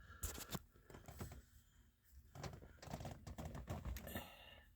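A series of light mechanical clicks, scattered and in short clusters, from the switches on a newly installed steering column being worked, with its turn-signal and hazard flasher switch in use.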